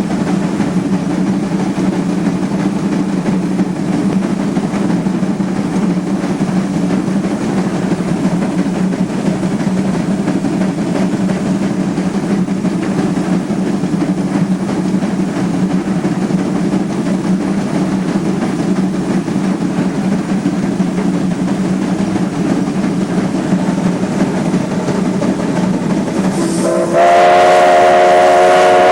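Steady running noise of a steam-hauled train on the move; about 27 seconds in, the Heisler steam locomotive's whistle starts a loud, steady blast.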